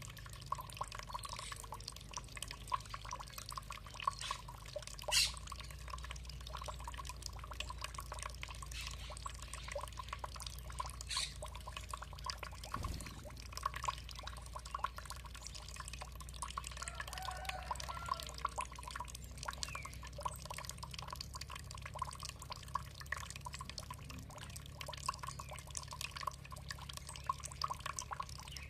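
Water dripping and trickling steadily, a continuous irregular patter of small drops and splashes.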